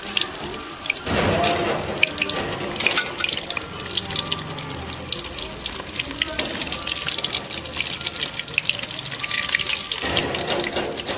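Besan-batter-coated boiled eggs deep-frying in hot oil in a steel karahi: a steady sizzle full of fine crackles.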